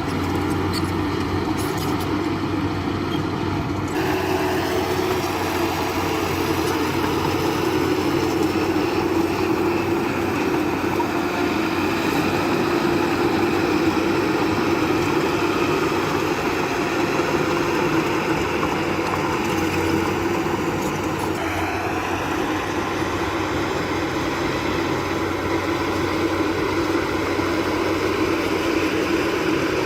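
Heavy diesel engine of earthmoving machinery running steadily, with a constant low hum. The sound shifts abruptly about four seconds in and again about twenty-one seconds in.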